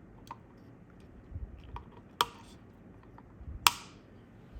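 Side cutters snipping capacitor leads on a circuit board: two sharp snips about a second and a half apart, the second louder, with a few lighter clicks around them.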